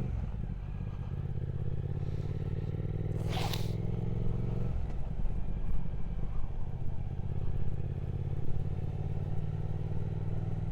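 Triumph Speed Twin 1200's parallel-twin engine running steadily on the road. There is a brief rushing noise about three and a half seconds in, and the engine note changes near five seconds in.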